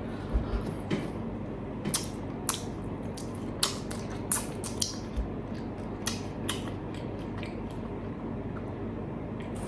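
Crispy fried chicken being bitten and chewed close to the microphone: irregular sharp crunches, about a dozen, over a steady low background hum.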